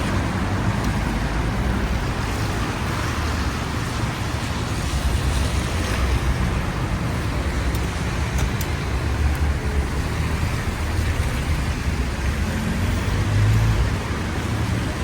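Steady wash of rain and road traffic on wet city streets, with a low rumble that swells briefly near the end.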